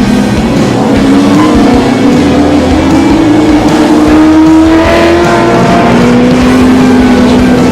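Racing muscle car V8 engine at full throttle, its pitch climbing steadily through a gear, then dropping about five seconds in as it shifts and pulls again.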